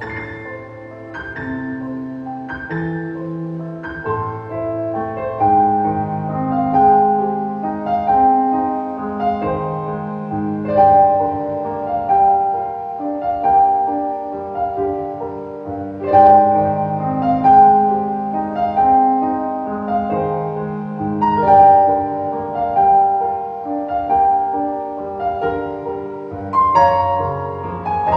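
Piano music: a melody played over lower held notes, continuing without a break.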